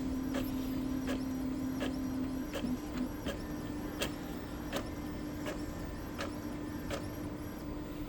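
Epson L3256 inkjet printer running a color copy: a steady motor hum with regular ticks, about three a second, as the printhead carriage makes its passes.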